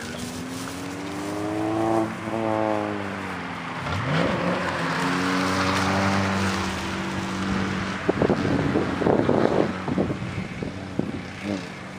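A car engine at an autocross revving up and easing off twice as the car accelerates and slows, with a burst of rough crackling about eight seconds in.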